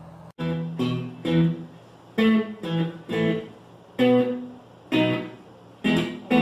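Guitar strumming chords, each struck sharply and left to ring, about one to two chords a second, as the introduction to a children's worship song.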